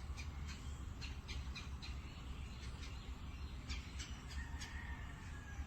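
Outdoor ambience: a steady low rumble with scattered short bird calls, and a faint thin whistle-like note near the end.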